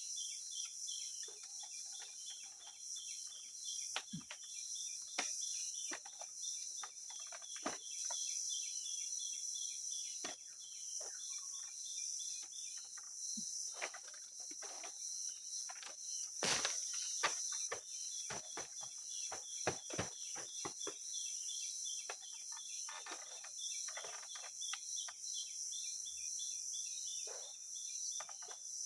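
Forest insect chorus: a steady high-pitched shrill with a fast, repeating chirp running under it. Scattered short clicks and knocks come throughout, the loudest about sixteen seconds in.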